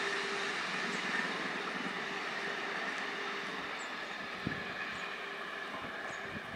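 Rumble of a 24-coach express passenger train running along the track and moving away, steadily dying down, with a faint steady hum over it. A single light knock comes about four and a half seconds in.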